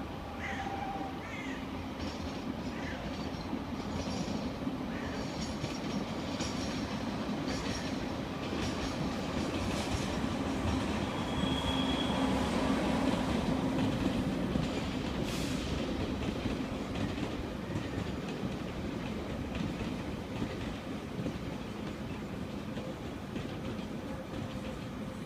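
Electric train of a BB 17000 locomotive and RIB stainless-steel suburban coaches arriving slowly, its wheels clicking over rail joints and points under a steady rumble. The sound swells as it passes and is loudest midway, with one brief high wheel squeal about halfway through.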